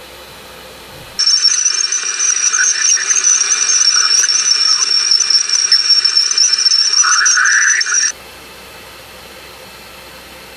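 Electronic 'space sound' track presented as the sound of Jupiter's moons Himalia and Kore. A quiet low hum gives way, about a second in, to a loud crackling hiss with a steady high whistle and a short rising sweep near the end. It cuts off abruptly about eight seconds in, back to the faint hum.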